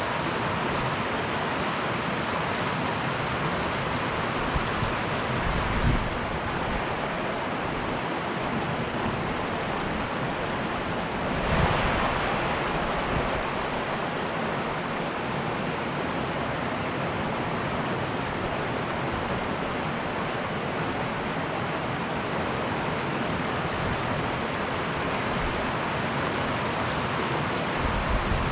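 Steady rushing of a mountain river flowing through a canyon, an even wash of water noise, with a couple of brief low rumbling swells that sound like wind buffeting the microphone.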